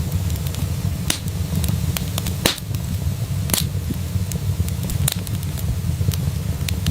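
Wood fire crackling in a fireplace: a steady low rumble of flames with irregular sharp pops and snaps, two louder pops near the middle.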